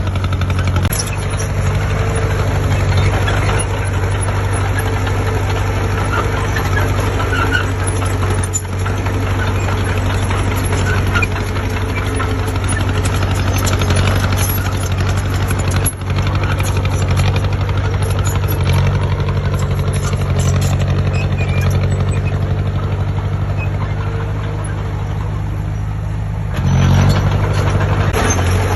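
Heavy diesel engine of a construction machine running steadily, rising briefly in level near the end.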